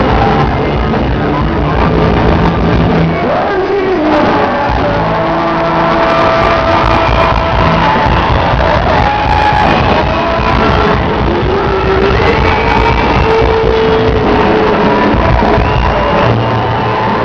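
Live band playing a song with singing, loud and continuous, with a crowd shouting along.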